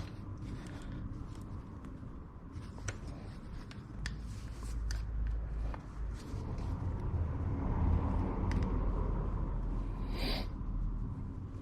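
Hands working at a removed car wiper linkage, trying to pop a rod off its ball joint: scattered light clicks and taps of metal parts, with a short scraping rustle about ten seconds in.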